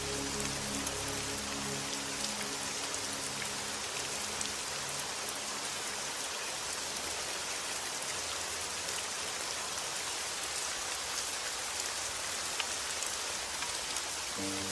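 Steady rain falling, a dense even patter with scattered individual drop ticks. Soft sustained music notes underneath fade out about three seconds in and come back just at the end.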